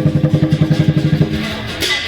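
A fast, even drum roll of pitched low beats, about ten strokes a second, that gives way about a second in to steadier drum tones. A bright, sharp hit comes near the end.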